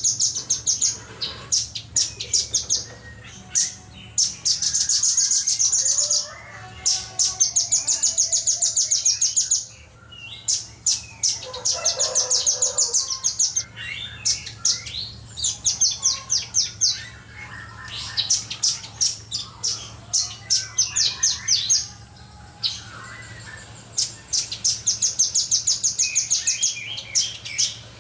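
Velvet-fronted nuthatch singing in fast, tightly packed high-pitched trills: runs of rapid repeated notes lasting one to three seconds each, separated by short pauses. A faint steady low hum lies underneath.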